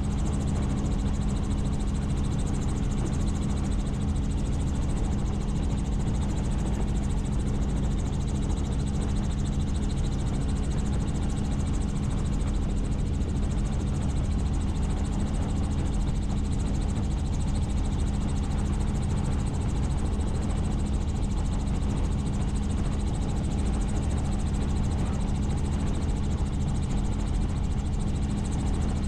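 Helicopter in flight: its rotor and engine give a steady, even drone with a constant low hum.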